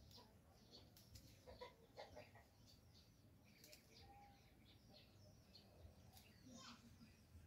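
Near silence: faint outdoor ambience with scattered short bird chirps and a few soft clicks.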